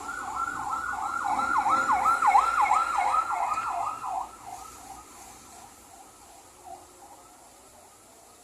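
A siren sounding a fast yelping warble, about four or five sweeps a second. It grows louder over the first two seconds or so, then drops away after about four seconds and trails off faintly.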